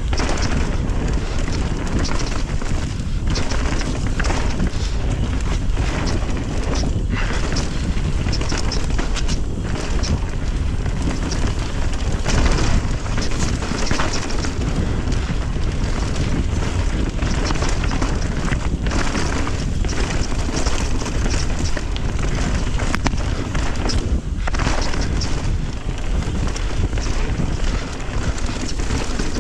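Wind rushing over the microphone and a mountain bike's tyres rolling over a dirt trail, with frequent rattles and knocks from the bike.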